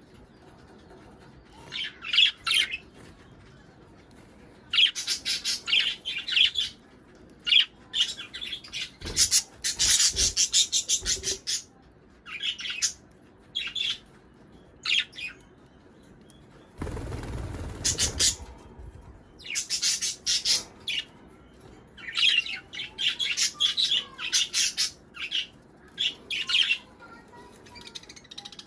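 Budgerigars chattering in clusters of rapid, high chirps with short pauses between. About halfway through comes a two-second burst of rustling noise.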